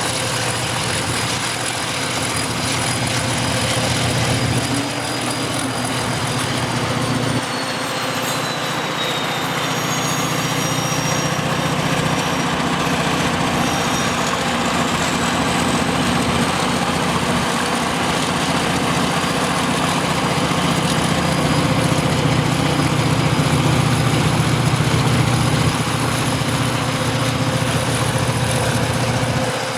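Diesel-electric locomotives running with a steady low engine hum. Faint high-pitched whines slide down and back up through the middle, and the sound grows slightly louder toward the end.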